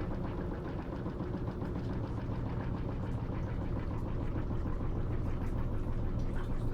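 Top-load washing machine (Electrolux LT13B) running mid-cycle: a steady motor hum with a faint, regular ticking churn.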